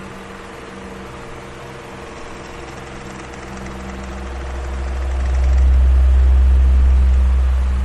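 Electric fan running, with a steady motor hum under the rush of air. Its airflow swells into a low rumble about five seconds in and eases off again near the end.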